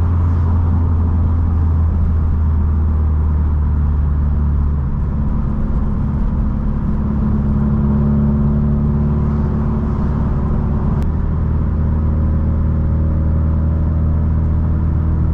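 Subaru STI's turbocharged flat-four engine and exhaust running at a steady engine speed, a constant low drone that holds one pitch, dipping slightly in level about five seconds in.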